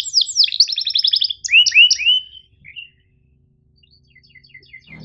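Domestic canary singing: steep falling whistled notes and a fast rattling trill, then three rising chirps, after which the song breaks off for about two seconds before soft short chirps start again near the end.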